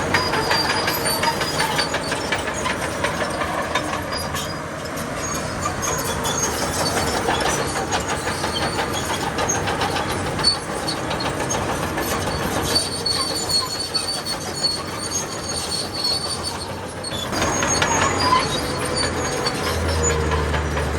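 Crawler bulldozer's steel tracks clanking and squealing as it moves, over a diesel engine running. The engine note grows steadier and stronger near the end.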